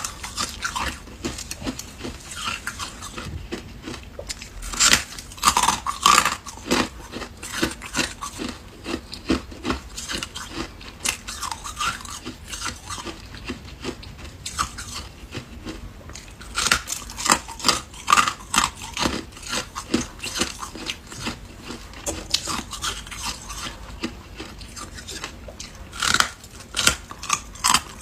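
Ice being bitten and chewed close to the microphone: a steady run of crackling crunches, with louder spells of biting about five seconds in, again around seventeen to nineteen seconds, and near the end.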